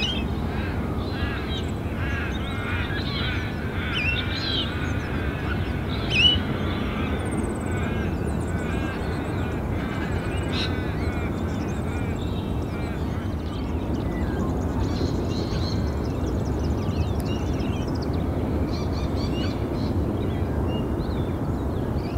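Birds calling: many short calls in the first ten seconds, a loud one about six seconds in, then fainter high chirps, over a steady low rumble.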